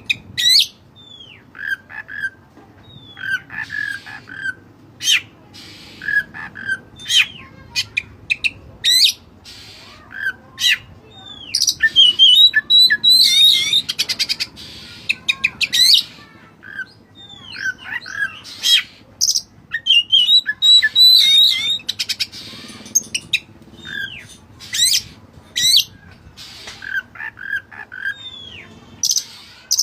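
Oriental magpie-robin (kacer) calling and singing: short whistled notes mixed with harsh, rasping squawks, with fast chattering runs about midway. This is the excited, rival-provoking call used as a lure for other magpie-robins.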